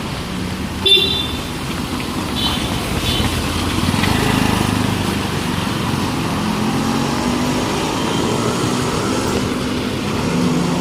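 Road traffic running by, engines rising in pitch as vehicles pass, with a short horn toot about a second in and two fainter toots a moment later.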